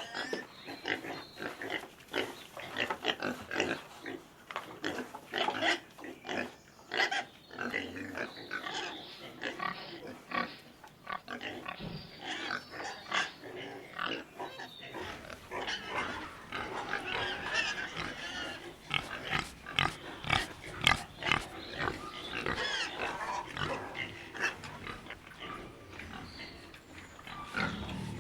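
Pigs grunting and squealing in a rapid, irregular run of short calls, several animals at once.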